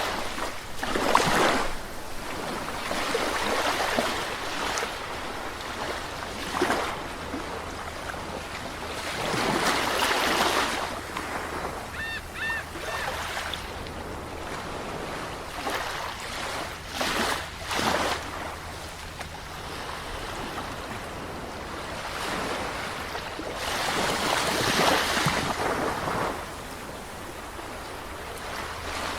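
Sea waves washing onto a shore, with a steady hiss of surf and louder swells breaking every several seconds. A brief high chirping call sounds about twelve seconds in.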